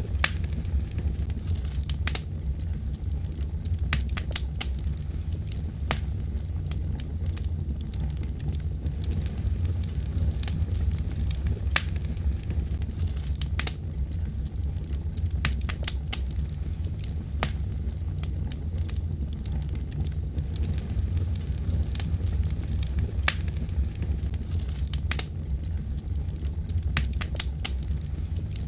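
Fire crackling, with irregular sharp pops and snaps over a steady low rumble of burning.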